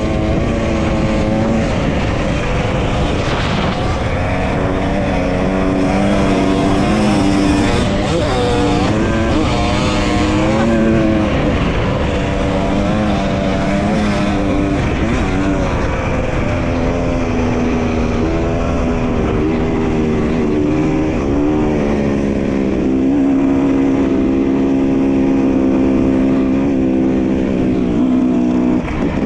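Dirt bike engine running under way, its revs rising and falling with gear changes and throttle and then holding steadier near the end, over heavy wind rumble on the microphone.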